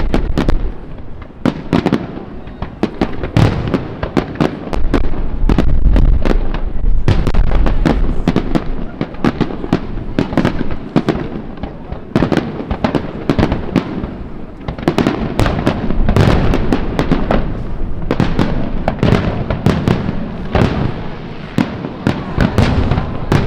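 A fireworks display in full barrage: dense, rapid shell bursts and crackling bangs, overlapping almost without a break, over a deep rumble.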